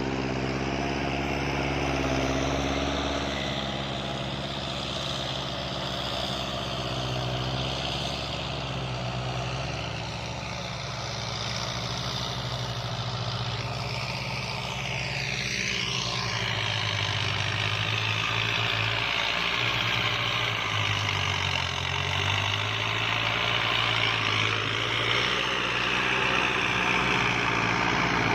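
Kubota farm tractor's diesel engine running steadily under load while rotary tilling a wet, muddy field, its pitch wavering slightly as the load changes.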